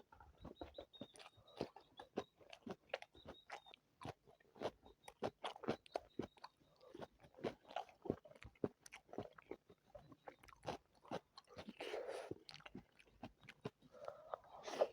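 Close-miked mouth sounds of a person eating chicken biryani: chewing and biting in a quick, uneven run of sharp clicks and smacks, several a second, with a longer, breathier sound about twelve seconds in.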